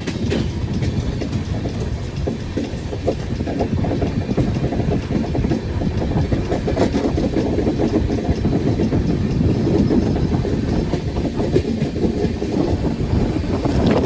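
Train running along the track: a steady low rumble with rapid, irregular clattering of wheels over the rails.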